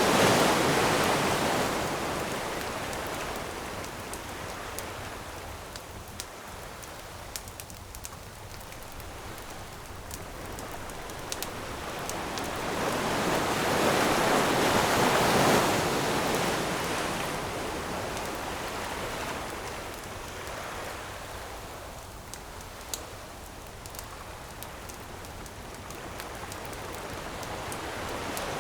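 Ocean waves washing onto the shore, each one swelling and then fading away over about fifteen seconds, with a wood campfire crackling in small scattered pops over it.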